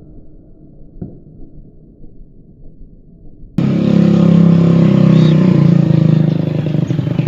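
A muffled low rumble with a faint knock about a second in, then an abrupt cut about three and a half seconds in to a vehicle engine running loudly and steadily.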